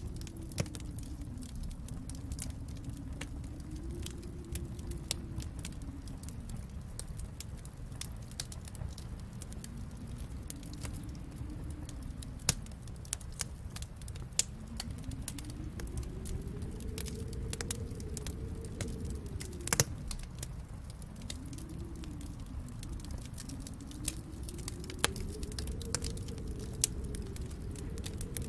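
Wood fire in a fireplace crackling, with many small irregular snaps and a few louder pops, over a low rumble that slowly swells and fades.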